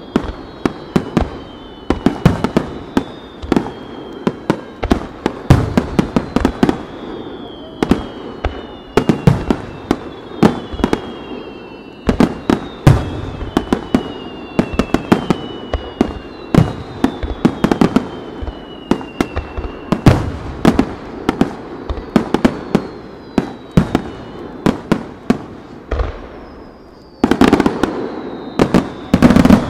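Fireworks display in full barrage: a rapid, irregular string of shell bursts and bangs, with several falling whistles running over them. Near the end it builds into a louder, denser volley.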